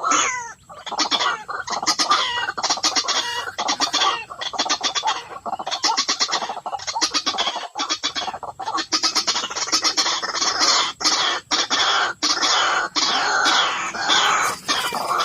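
White-breasted waterhen (ruak-ruak) calling: a long run of loud, harsh, rapidly repeated croaking notes in short bursts with brief gaps between them.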